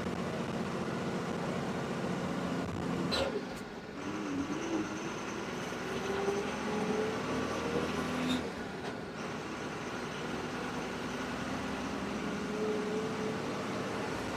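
Bus engine running under way with road noise. The engine note climbs slowly and drops off sharply twice, about three and eight seconds in.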